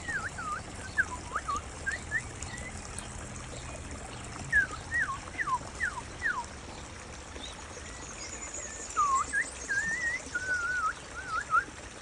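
A bird singing a series of short whistled notes that sweep up and down, in several bursts, over the steady trickle of a small waterfall running into a rock pool.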